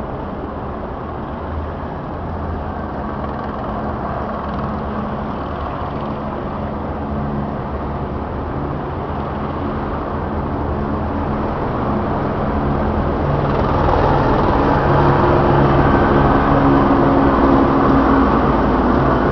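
Helicopter running, a steady engine-and-rotor noise with a low hum that grows louder about two-thirds of the way through as it draws nearer.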